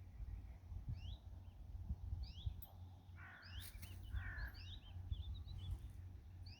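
Small birds chirping with short, quick rising calls, repeatedly, and a brief louder call about halfway through, over a steady low rumble.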